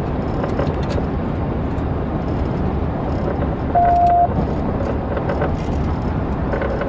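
Car driving, with steady road and engine rumble, likely heard from inside the cabin. About four seconds in, a single short beep sounds over it.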